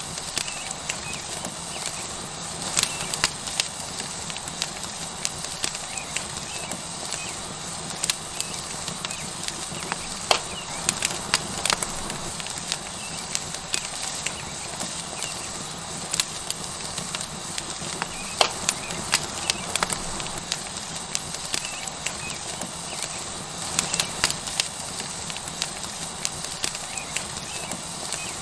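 Tomahawk steak sizzling on a hot rock over a wood fire, a steady hiss broken by frequent sharp crackles and pops from the burning wood.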